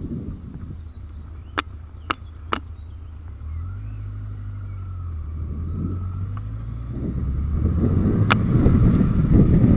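Yamaha Diversion 900's air-cooled inline-four engine running at low revs, then pulling away, with wind noise and loudness building over the last few seconds. A few sharp clicks come early on and one more near the end.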